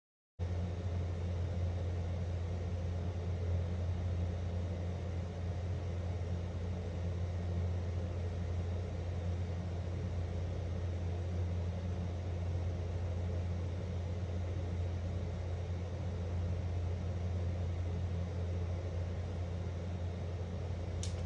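Steady low hum under a faint even hiss. It starts abruptly about half a second in and cuts off at the end.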